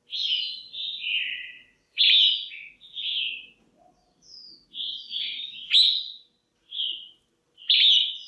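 Female red-whiskered bulbul calling in short, bright chattering phrases, about one a second with brief pauses between. A calling track of the kind used to stir up male bulbuls or to pair birds.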